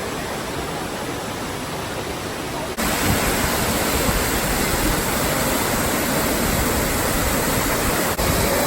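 Waterfall's steady rush of falling water, which becomes abruptly louder about three seconds in.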